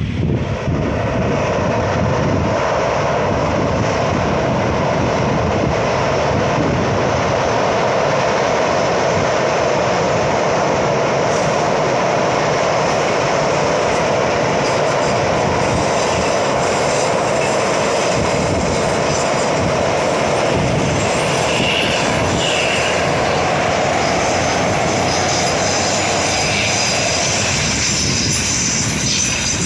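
A train passing close by: its wheels run steadily and loudly over the rails, with a few brief squeals about two-thirds of the way through, and the sound fades away at the very end.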